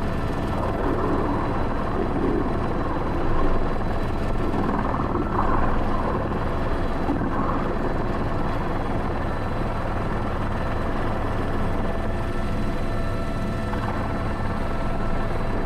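Airbus H125 (AS350 B3) single-turbine helicopter running steadily, its rotor thrum and turbine whine heard from inside the cockpit, at a constant level with no change in power.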